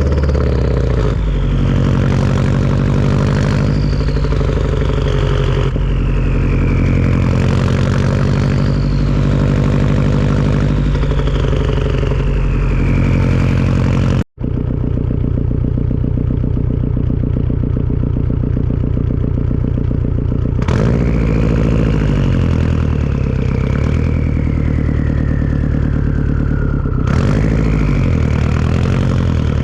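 Turbocharged Subaru engine with a Tomei turbo-back exhaust running under varying revs. A high turbo whistle sits over it and glides down in pitch again and again, the last time as one long fall. The sound cuts out abruptly for a moment about halfway through, then resumes.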